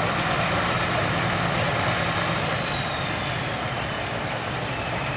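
Farm tractor engine running steadily at a tractor pull, with a thin high whine that slowly drops in pitch partway through.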